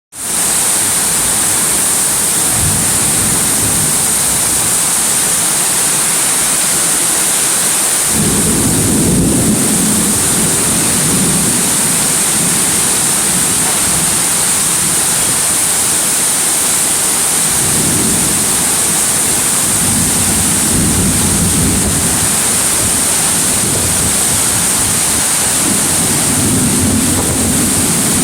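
Heavy rain pouring down in a strong wind, a loud, steady hiss. Deep rumbling comes and goes several times, starting about eight seconds in.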